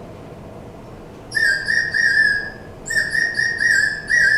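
Water-filled bird whistle blown in short warbling phrases, starting about a second in: the water bubbling inside makes the high whistle tone trill like birdsong. Between phrases, the player's finger pops off the hole.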